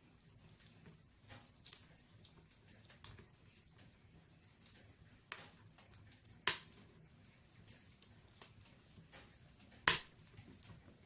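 Firewood burning in a fireplace: irregular crackles and pops, with two loud sharp pops, about six and a half and ten seconds in.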